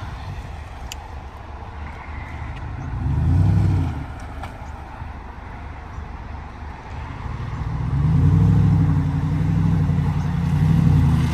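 A vehicle's engine running low and revving up in surges, once about three seconds in and again from about eight seconds on, as it works to move a car stuck in the snow.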